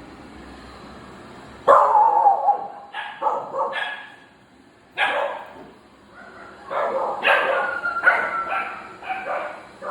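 A dog barking in a series of sharp barks starting about two seconds in, pausing briefly near the middle, then barking in a quicker run.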